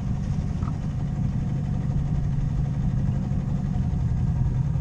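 A sailboat's engine running steadily at low speed, a low even hum.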